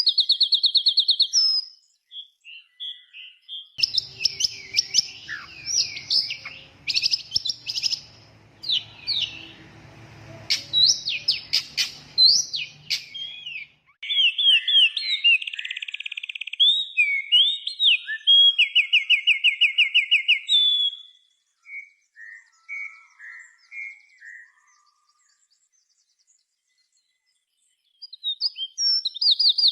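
A songbird singing fast, varied chirps and rapid high trills in bursts. It pauses for a few seconds near the end, then starts again.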